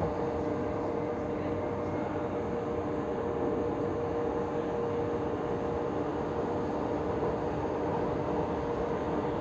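Inside a moving electric passenger train: a steady running rumble of wheels on rail with a constant hum.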